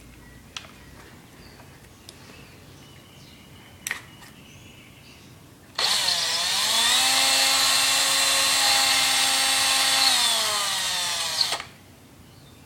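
Electric drill running for about six seconds, enlarging a hole in a plastic egg: a steady whine that climbs in pitch as the trigger is pulled and winds down when it is released. A few faint clicks of handling come before it.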